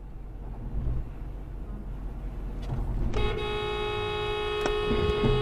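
Low road and engine rumble, then a car horn sounding one long steady blast starting about three seconds in.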